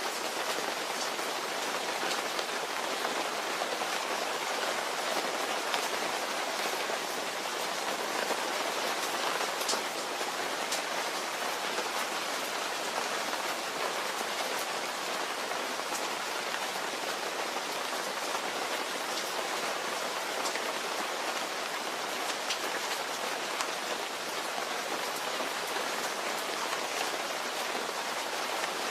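Steady rain falling, an even hiss with scattered single drops ticking out above it.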